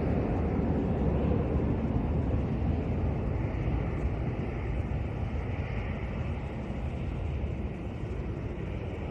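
Jet airliner's engine noise, a steady rumble that slowly fades.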